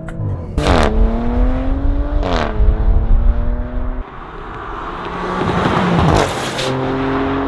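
2018 Audi RS5's twin-turbo V6 accelerating hard, its note climbing and dropping at two quick upshifts in the first few seconds. Then a rush as the car sweeps past with falling pitch, loudest about six seconds in.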